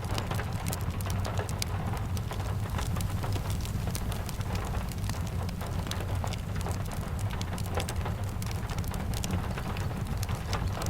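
Rain and fireplace ambience: steady rain hiss over a constant low rumble, dotted throughout with many sharp little crackles and ticks.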